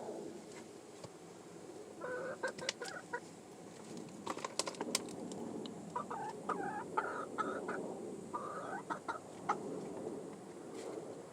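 Young chickens clucking in three short bursts of quick calls, with a few sharp taps in between.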